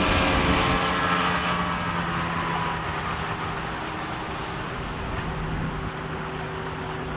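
Evinrude E-TEC 225 hp V6 two-stroke outboard running with the boat under way, a steady engine hum over rushing water and wind, slowly getting quieter.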